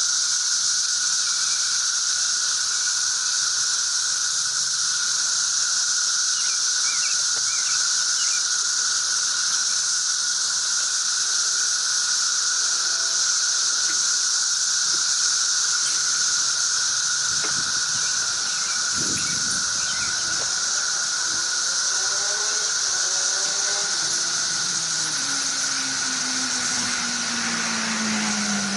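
A dense chorus of cicadas droning loud and unbroken in a high, steady whine. In the last few seconds a low hum with several overtones glides steadily down in pitch.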